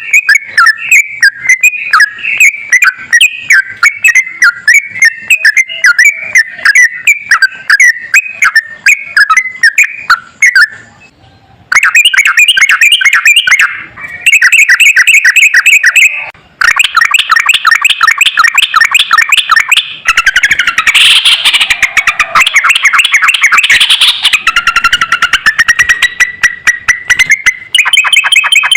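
Sooty-headed bulbul (trucukan) singing a loud, long run of very rapid, repeated chattering notes, broken by a few abrupt short gaps.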